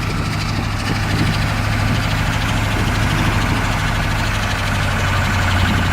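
Ford diesel engine idling steadily, still cold just after a cold start.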